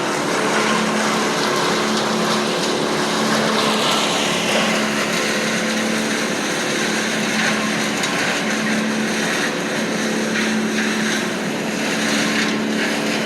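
Engine of land-clearing equipment running steadily, a constant drone over a broad rushing noise.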